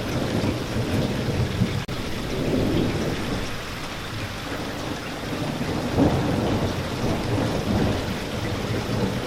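Steady heavy rain with low rolling thunder underneath, swelling louder about six seconds in. The sound cuts out for an instant about two seconds in.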